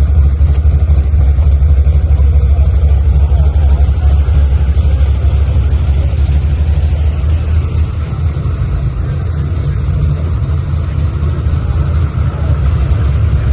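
A motor vehicle running, a steady low rumble that stays even throughout.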